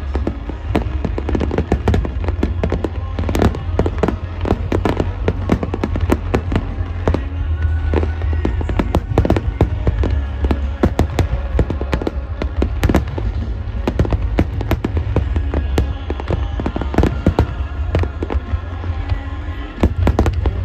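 Aerial fireworks bursting in rapid succession, a dense run of booms and cracks over a continuous low rumble, with music playing along.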